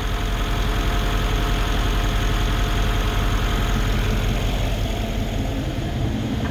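Freshly rebuilt Mercedes E63 AMG twin-turbo V8 idling steadily with the bonnet open, the sound made louder by a tiled workshop.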